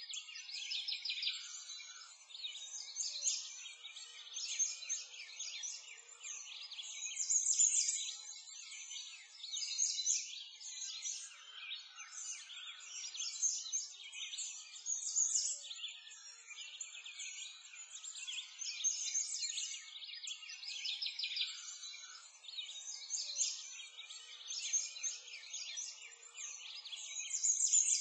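Birds chirping and singing, a busy chorus of high calls that swells and fades every few seconds.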